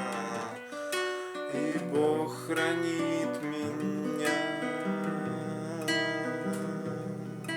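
Acoustic guitar strumming chords: the instrumental closing bars of a song, with no singing.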